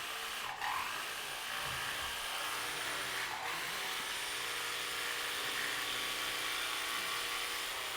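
Electric jigsaws running and cutting across 1x6 wooden boards, a steady motor whine mixed with blade chatter through the wood.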